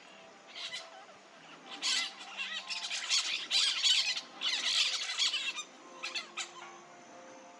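Peach-fronted parakeet calling: a short call about half a second in, then a dense run of loud, rasping calls from about two to five and a half seconds, and two brief calls near the end.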